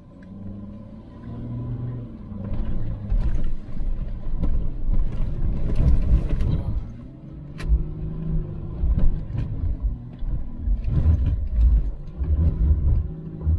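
A Volkswagen Touareg's V6 turbo-diesel engine, heard from inside the cabin, revving up and down under load as it climbs a soft sand track. There are thumps and rattles from the body going over the bumpy ground.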